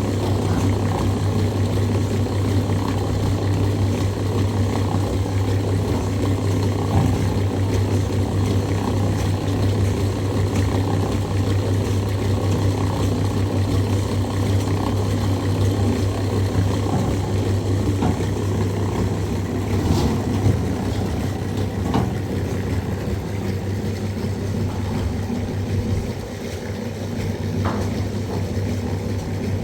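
A motor running at a steady pitch, with a few faint knocks over it and a slight drop in level about three-quarters of the way through.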